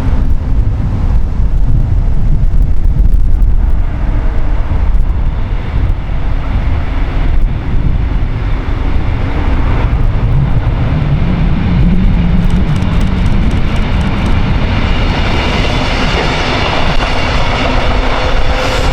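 Wind buffeting the microphone, then a train approaching. From about ten seconds in, its running sound grows, with a rising tone and the first rhythmic wheel clicks.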